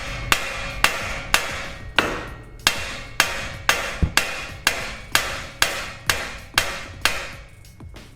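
A hammer striking the front suspension at the lower ball joint, about two hard blows a second, to knock the stuck ball joint loose; the blows ring like metal on metal and grow fainter near the end.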